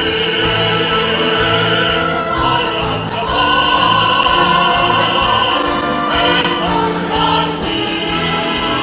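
Music-school pop-symphony orchestra playing a passage of long held chords that change every second or two.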